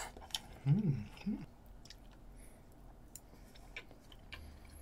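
Close-miked chewing of a mouthful of cup noodles with the mouth closed, with small wet mouth clicks. About a second in come two short closed-mouth hums.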